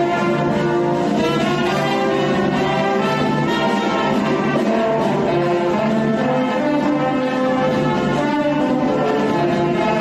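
A band with brass instruments playing a tune, with held melody notes over a steady bass line and no break.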